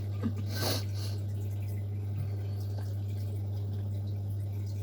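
Steady low hum throughout, with a short hiss-like rustle about half a second in.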